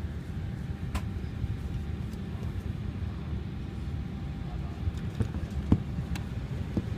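Steady low rumble of an airliner cabin at the gate, with a few sharp clicks and knocks over it.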